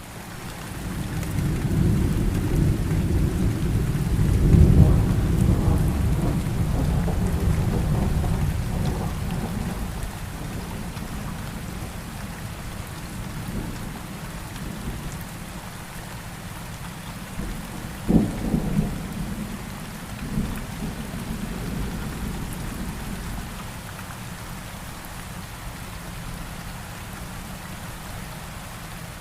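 Steady rain with thunder: a long low rumble swells and rolls away over the first ten seconds, and a sharp thunderclap cracks about eighteen seconds in, with a few smaller rumbles after it.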